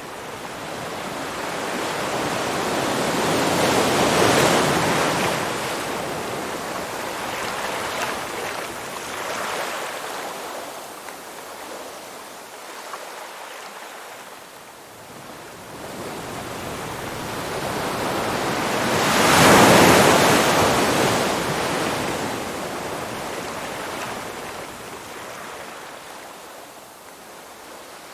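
Ocean waves washing in: a rushing noise that swells and ebbs in slow surges, loudest about four seconds in and again about twenty seconds in.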